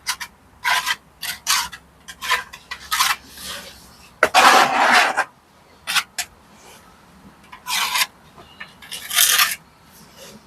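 A hand tool scraping on brickwork and mortar in short, irregular strokes. The longest and loudest stroke comes about four seconds in and lasts about a second.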